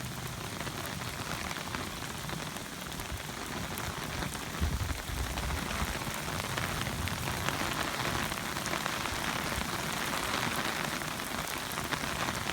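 Torrential rain falling steadily and densely on an umbrella overhead and the ground, a hiss of countless fine drop ticks that grows a little heavier in the second half. A brief low rumble comes about five seconds in.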